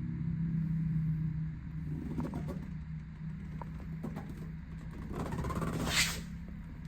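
Yamaha YZF-R125's single-cylinder four-stroke engine idling with a steady low hum. A rising hiss swells and peaks about six seconds in.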